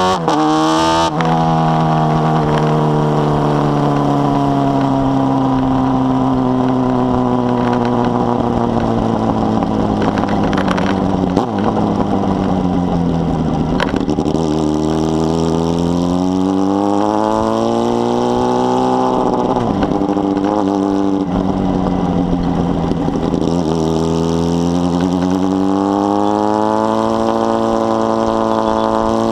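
Honda Hornet 600 inline-four with a 4-into-1 exhaust running under way. Its pitch sinks slowly over the first dozen seconds, climbs again, dips about two-thirds of the way through, then rises toward the end as the revs change.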